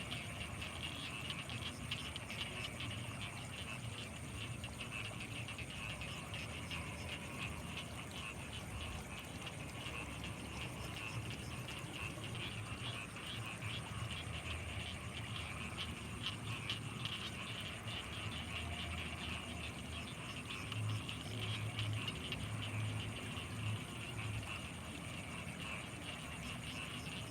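Night chorus of frogs in rice paddies, a dense, rapidly pulsing calling that runs on steadily, with a thin steady high whine above it and a low rumble that swells for a few seconds about three-quarters of the way through.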